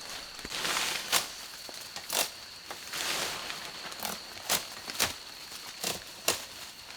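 Irregular sharp cracks and knocks of wood being chopped or snapped, about six of them, between short stretches of rustling. A steady high-pitched insect drone runs underneath.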